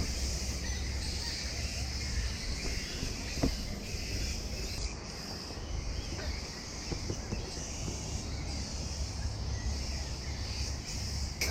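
Outdoor ambience with a steady high hiss of insects and faint bird calls over a low rumble, and a single sharp click about three and a half seconds in.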